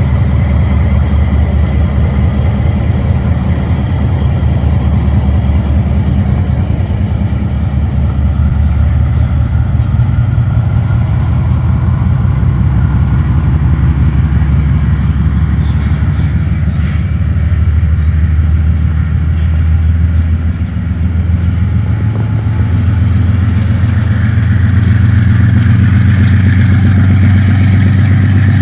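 Diesel-electric locomotive engine running under power, heard loud from inside the cab: a steady deep drone with a fast, even pulse, growing louder near the end.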